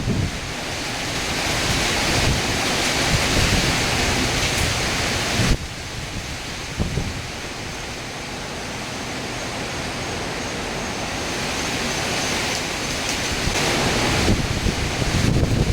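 Hurricane wind and heavy rain, with gusts buffeting the microphone. The sound drops suddenly about five seconds in, then slowly builds again.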